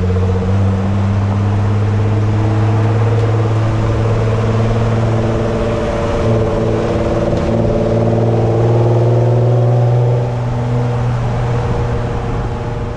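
A car engine running steadily under light throttle. Its note rises slowly through the middle and eases off about ten seconds in.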